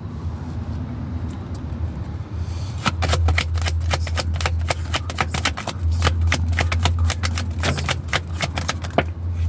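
Tarot cards being shuffled by hand: a quick, irregular run of card slaps and flicks from about three seconds in until near the end, over a steady low hum.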